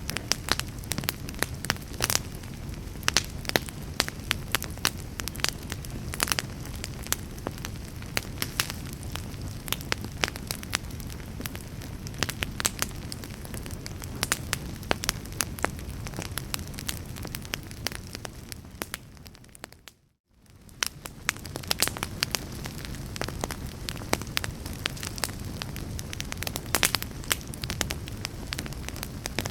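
Wood fire in a fireplace crackling, with frequent sharp pops and snaps over a steady low rumble of the flames. About twenty seconds in the sound fades out to near silence for a moment and fades back in.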